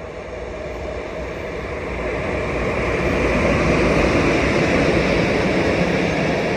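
A train approaching on the rails, its rolling noise swelling over the first few seconds and staying loud as it comes past.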